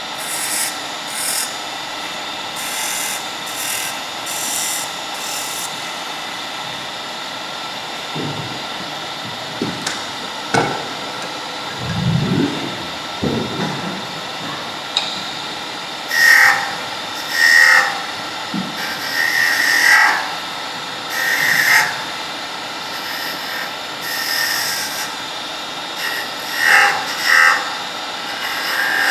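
Wood lathe running steadily while a turning tool cuts the spinning wood of a humming top's handle in a string of short passes, about a second each, most of them in the second half.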